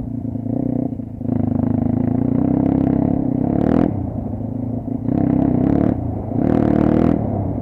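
Kayo dirt bike engine running with the throttle opened and closed, swelling into three louder revving stretches of a second or two each.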